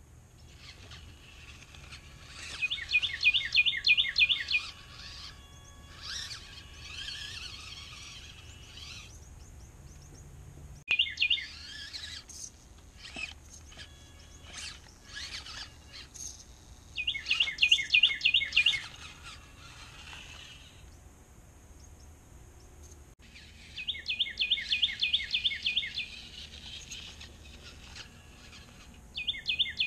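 A songbird singing loud, fast trilled phrases of repeated down-slurred notes, five times, with other birds chirping faintly between the phrases.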